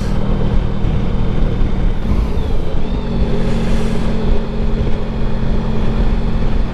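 Honda Pan European motorcycle's V4 engine running at a steady road speed under heavy wind and road noise, the engine note easing off about two seconds in and picking up again a second later.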